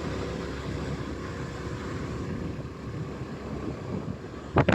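Motorcycle on the move: steady engine and road rumble with wind rushing over the microphone. A brief, loud burst of noise near the end.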